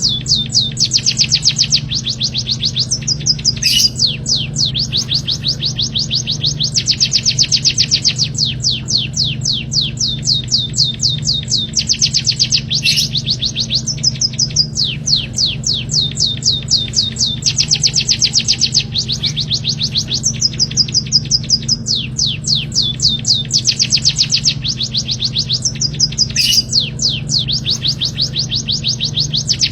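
Recorded small songbird song: long fast runs of high, repeated chirps, many a second, broken by short pauses every few seconds, over a steady low hum.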